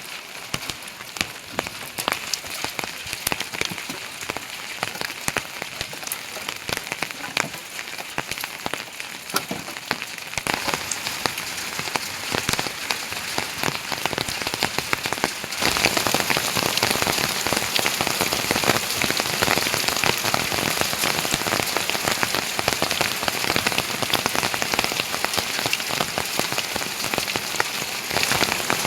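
Heavy rain falling, with many separate drop hits in a steady hiss. It grows louder about a third of the way in, then steps up again sharply about halfway through and stays heavy.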